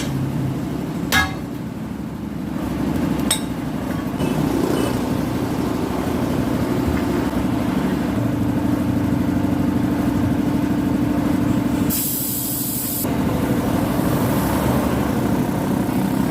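Engine running steadily, with two sharp metallic clicks in the first few seconds and a one-second burst of hissing air about twelve seconds in.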